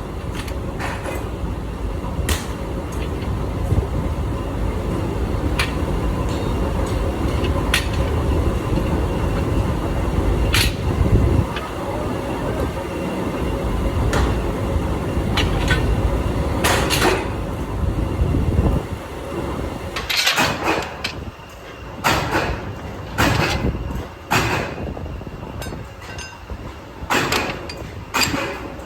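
Factory machinery running with a heavy low rumble, a steady hum and scattered metal clicks. About two-thirds of the way through the rumble drops away, leaving a series of separate sharp metal knocks and clatters.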